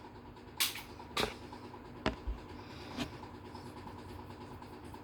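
A few short clicks and knocks, roughly one a second, as a table lamp is switched on, over a faint steady hum.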